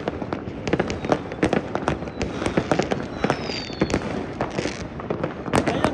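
Many fireworks going off at once: a continuous barrage of sharp bangs and crackles, with a faint falling whistle about three seconds in.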